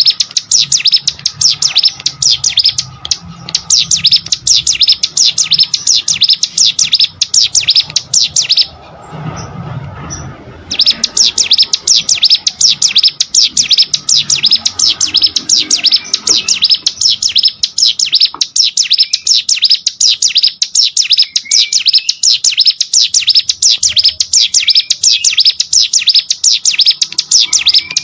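Ciblek sawah, a prinia, singing a fast, unbroken run of high chirps, many per second. The song stops for about two seconds roughly nine seconds in, then resumes.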